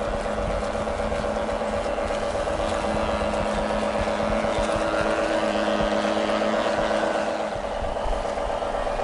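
Radio-controlled model boat's motor running steadily, a continuous hum with a fairly even pitch.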